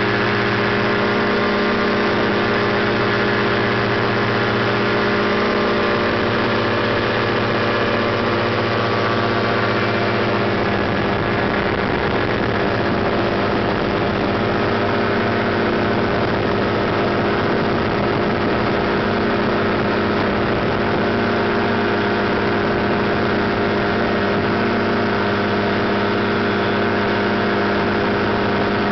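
An ultralight aircraft's engine and propeller running steadily under power, with a constant drone of engine tones and no breaks.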